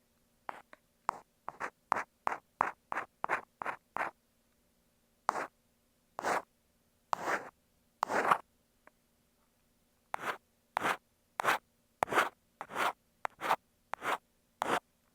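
Ear pick scratching and scraping against an earphone microphone in short strokes. There is a quick run of about three strokes a second, then a few longer scrapes, then another quick run near the end.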